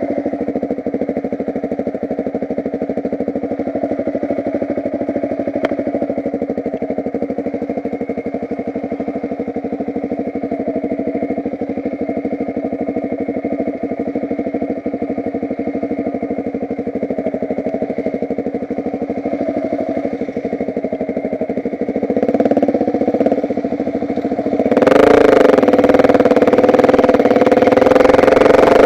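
Motocross bike engine running at low, fairly steady revs, then opening up sharply and much louder near the end as the bike accelerates.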